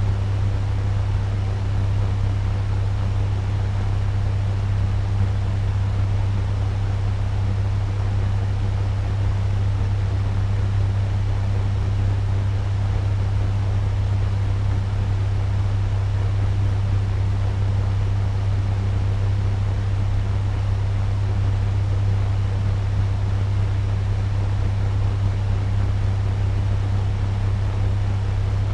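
Turbo fan running steadily at medium speed: a constant low hum with an even airy rush over it.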